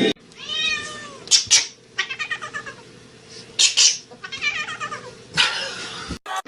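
A domestic cat meowing, several drawn-out calls that rise and fall in pitch, with a few short sharp noises between them.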